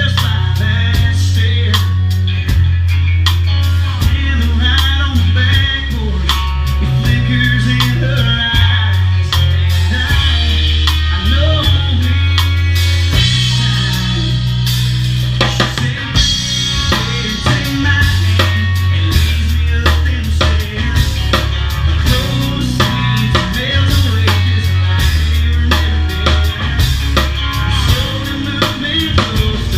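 Live rock band playing without vocals: a drum kit with bass drum, snare and rimshots keeps a steady beat over a bass line and held instrumental notes.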